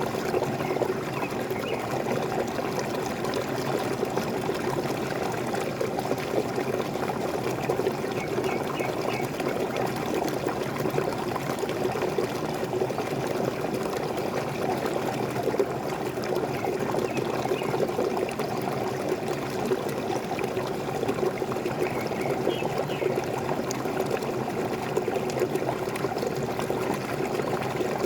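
Small waterfall: water falling and splashing steadily, with a few faint bird chirps now and then.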